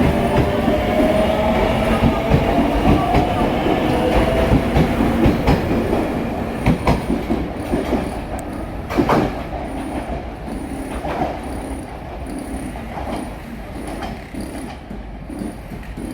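Train running on rails, growing fainter: a gliding whine in the first few seconds, then a few sharp clacks of wheels over rail joints.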